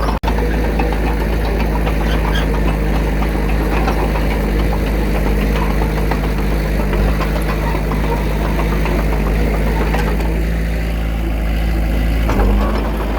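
Bulldozer's diesel engine running steadily with a low rumble. The sound breaks off for an instant just after the start, and the engine note shifts briefly near the end.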